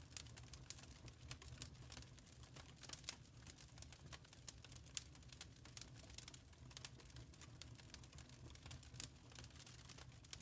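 Faint wood fire crackling in a fireplace: irregular small pops and snaps over a low, steady rumble.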